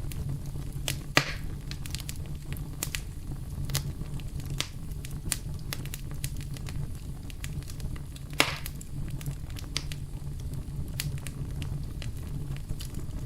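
Campfire burning with a steady low rumble and frequent irregular crackles, with two louder pops, one about a second in and one about eight seconds in.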